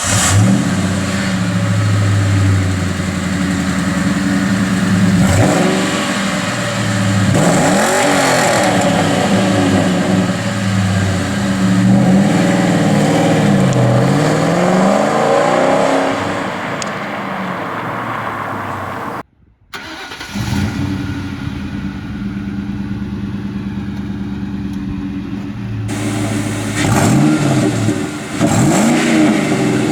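2001 Mustang Bullitt's 4.6-litre V8 through its stock factory exhaust (H-pipe with catalytic converters) idling just after start-up, then revved several times. After a brief cut about two-thirds of the way through, a stock Mustang GT's V8 on its stock exhaust idles and is revved near the end.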